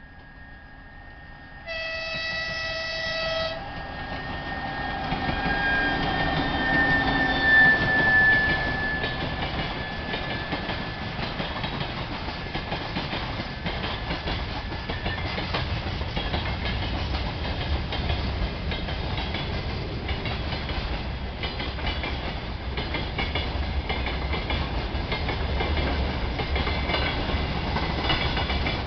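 2TE116 diesel locomotive sounding one short horn blast about two seconds in. Its 5D49 diesel engines and wheels then grow louder as it passes, in a steady rumble with the clickety-clack of wheels over rail joints.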